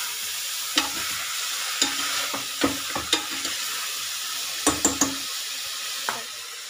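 Mushrooms and onions sizzling in ghee in a stainless steel pressure cooker as a steel spoon stirs them, with the spoon clinking sharply against the pot several times.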